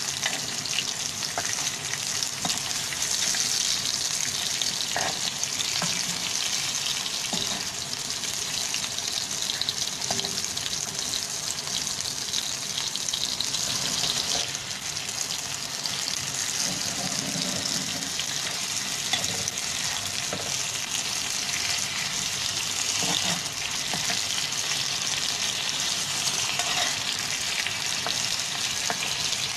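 Beef chapli kababs shallow-frying in oil on a flat griddle: a steady sizzle, with a few light scrapes and knocks of a spatula against the pan as the patties are turned.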